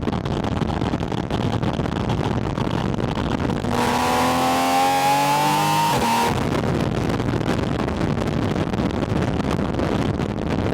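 Porsche 718 Spyder RS's naturally aspirated flat-six engine heard through a microphone at the air intake, over a steady rumble of wind and engine noise. About four seconds in it revs hard under acceleration for a couple of seconds, its pitch climbing, then drops back suddenly.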